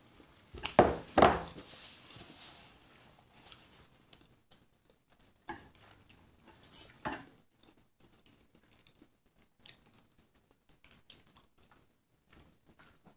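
A utensil clinking and knocking against a bowl. There are two loud knocks about a second in, then scattered quieter clicks and taps.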